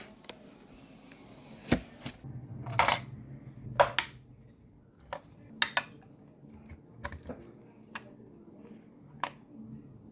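Computer hardware parts being handled and fitted: about ten sharp, irregular clicks and small knocks of hard plastic and metal, one a short rattle about three seconds in.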